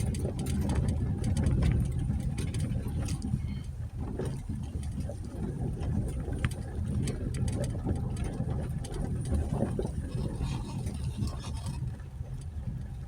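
2020 Jeep Gladiator driving on a rough dirt trail: a steady low engine and tyre rumble with frequent short clicks and knocks.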